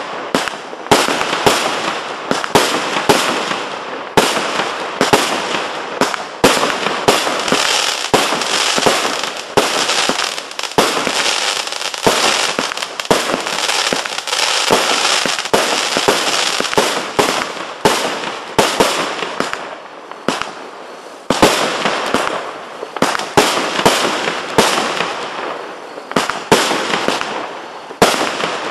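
A 140-shot compound firework battery firing shot after shot: sharp launch reports and bursts come two or three a second over a continuous hiss, with a short lull about twenty seconds in.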